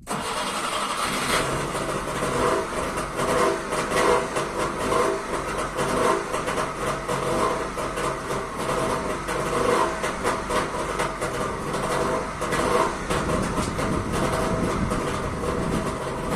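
Trabant 601's two-stroke twin-cylinder engine on a cold start: it comes in suddenly at the very beginning and keeps running, its level rising and falling unevenly.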